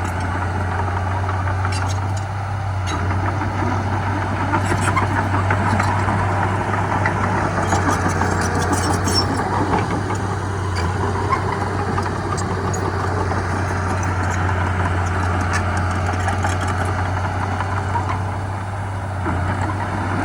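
Heavy diesel earthmoving machinery engine running steadily, with short metallic clicks and clanks scattered through it.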